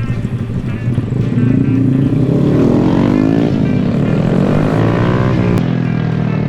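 Honda Grom motorcycle's small single-cylinder engine accelerating: the revs climb, drop at a gear change about halfway through, climb again, then ease off near the end.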